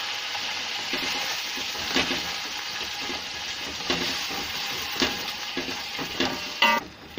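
Onions and tomato purée sizzling in hot oil in a large aluminium pot, stirred with a wooden spoon that scrapes and knocks against the pot now and then. The sizzle drops away near the end.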